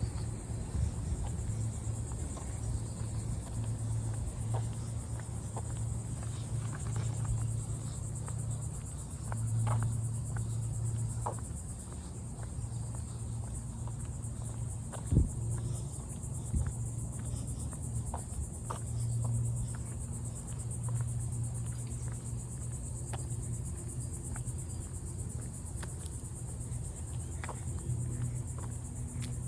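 A steady, high-pitched chorus of insects such as crickets, over a low rumble, with scattered light clicks and a sharp knock about halfway through.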